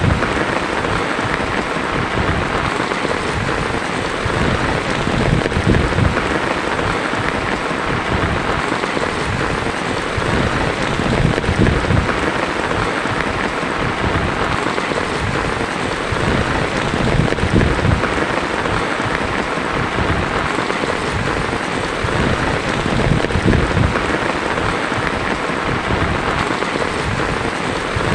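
Heavy rain pouring steadily on a tin roof, with a low rumble swelling and fading underneath.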